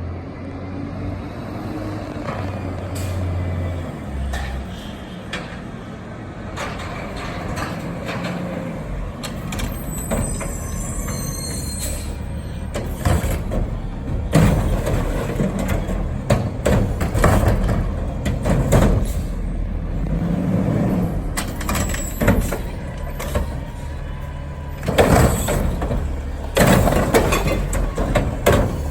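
Recycling garbage truck running with a steady low engine rumble, a brief high squeal about ten seconds in, then a series of loud clanks and bangs through the second half as it collects recycling, loudest near the end.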